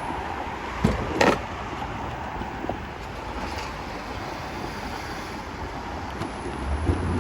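Steady road and traffic noise heard from a moving motorbike, with two sharp knocks about a second in and a low rumble building near the end.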